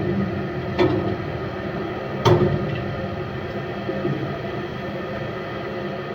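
Steady mechanical hum, with two sharp knocks about a second and a half apart, the second the louder.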